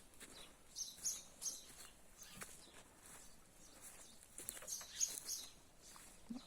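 Small birds chirping faintly in two short spells, about a second in and again around five seconds in, with a few faint clicks between.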